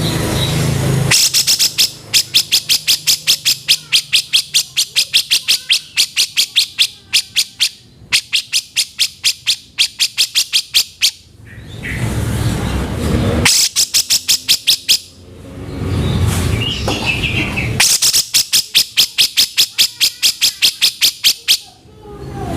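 Cucak jenggot (grey-cheeked bulbul) calling in fast, harsh rattling runs of about eight notes a second. There are four long runs, with a low rumbling background noise in the gaps between them.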